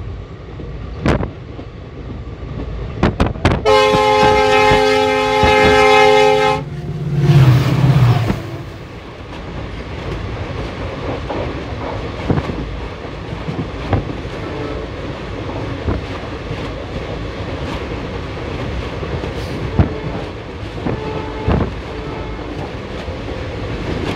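A locomotive horn sounds a loud chord for about three seconds. A low note falling in pitch follows as the oncoming freight locomotive passes. Then comes the steady rumble and clatter of freight wagons passing close alongside the moving train, with scattered wheel clicks over rail joints.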